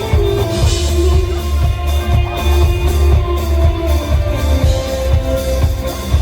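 Live band playing a rock song, an instrumental stretch with no singing: guitar over a heavy bass line and a steady drum beat.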